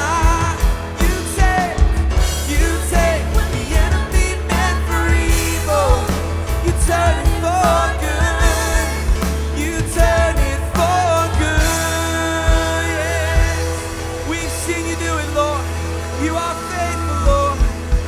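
Live worship band playing: drums, bass, synth and piano keep a steady beat while voices sing a held, wavering melody over it.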